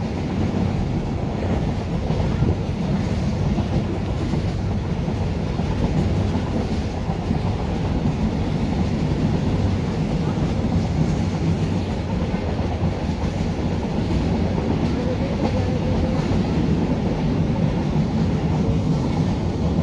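A train running on the rails with a steady rumble.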